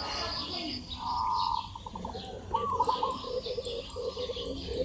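Birds calling: an arching call that trails off into short notes repeats every couple of seconds, over a run of short, lower notes through the second half.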